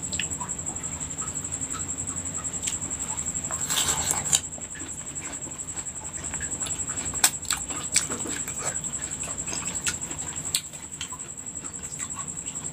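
Close-up chewing and mouth sounds of a person eating crisp water apples dipped in sambal: scattered small crunches, clicks and wet smacks, with a denser crunchy burst about four seconds in. A thin steady high-pitched whine sits under it throughout.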